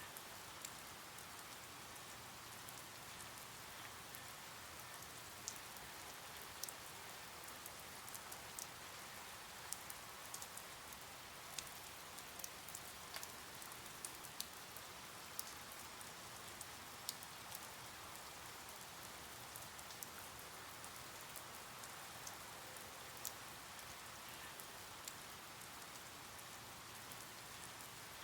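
Steady rain, a faint even hiss with individual drops ticking sharply now and then at irregular moments.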